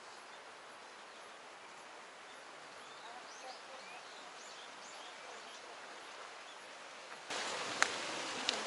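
Faint outdoor ambience: a steady hiss with a few small birds chirping faintly around the middle. About seven seconds in, the background noise suddenly gets louder.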